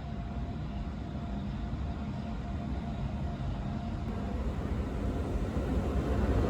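Low rumble of a BN coast tram, growing steadily louder toward the end as it draws near, with a faint steady whine during the first few seconds.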